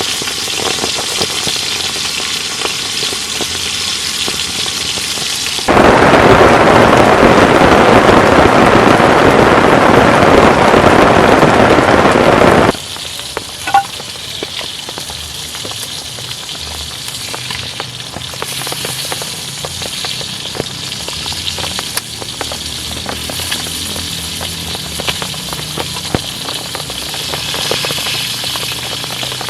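Beef rib steak sizzling in a hot pan, a steady hiss that turns much louder and denser for about seven seconds starting some six seconds in, then drops back, with a single click shortly after.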